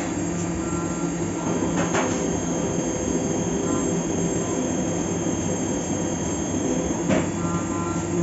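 Fagima Jazz M 5-axis CNC milling machine cutting a part: a steady mix of spindle and cutting noise with several held tones. There is a sharp click about two seconds in and another near the end.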